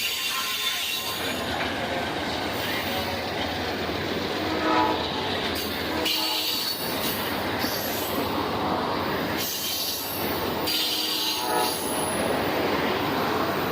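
A train passing, with continuous noise of its wheels on the rails and a brief pitched tone about four and a half seconds in.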